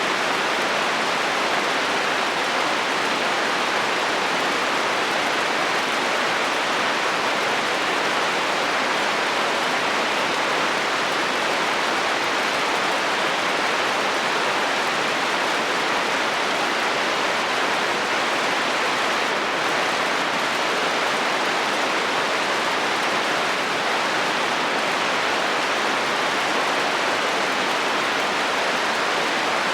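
Steady heavy rain falling on a metal roof: a constant, even hiss of drops with no breaks or thunder.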